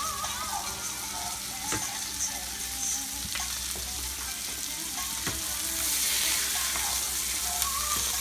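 Flank steak and potatoes frying in pans on a stovetop: a steady sizzle that grows louder about six seconds in. A few light knocks of a spatula and tongs against the pans.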